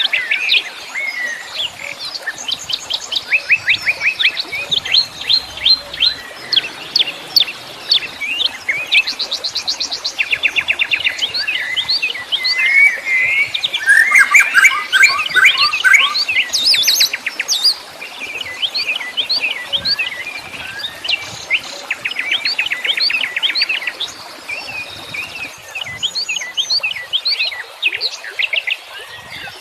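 Several wild songbirds singing at once, a dense chorus of fast trills, repeated chirps and slurred whistles, busiest about halfway through.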